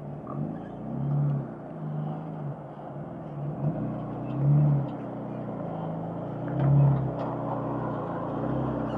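Jeep engine running at low crawling speed, its pitch and loudness rising in several short bursts of throttle as it climbs over rock.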